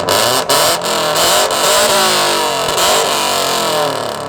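A modified car exhaust revved hard in an exhaust competition, with several sharp cracks in the first second and a half and the revs rising and falling throughout.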